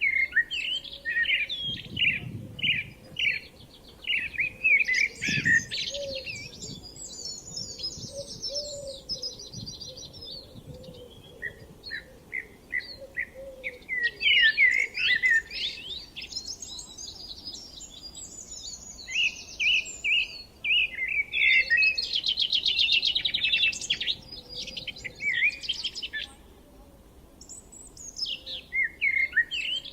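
Songbird singing in phrases of a few seconds each, quick high chirps running into fast trills, with short pauses between the phrases.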